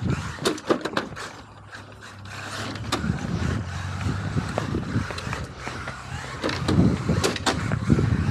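Tamiya XV-01 electric RC rally car driving fast on pavement: motor and drivetrain running with the rough rolling noise of its tyres on the asphalt, with several sharp clicks and knocks along the way.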